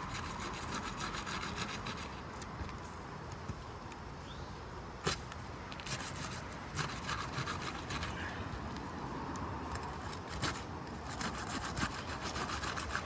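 A flat pry bar scraping and working under 3-tab composition asphalt shingles, crackling as it breaks their adhesive tar seal strips, with a sharp knock about five seconds in.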